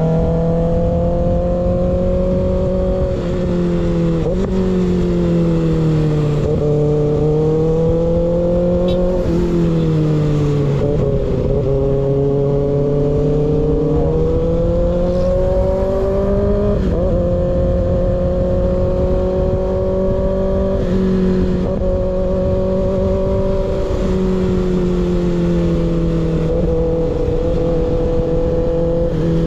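Kawasaki ZX6R inline-four running through an unbaffled M4 GP19 slip-on exhaust while riding, the engine note holding fairly steady, then dipping and rising again several times with throttle and gear changes. Wind rumble sits under it.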